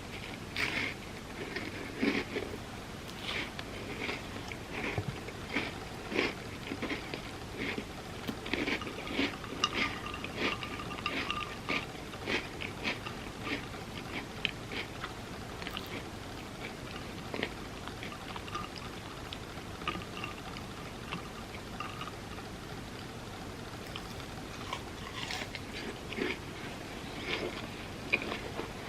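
Close-miked eating: chewing and wet mouth smacks on a peanut butter dessert, in quick irregular clicks. They come thickly through the first half, thin out in the middle and pick up again near the end.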